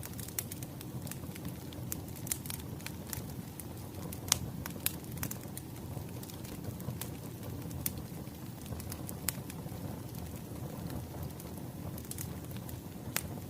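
Wood fire crackling: a steady low rumble of burning logs with irregular sharp pops, the loudest about four seconds in.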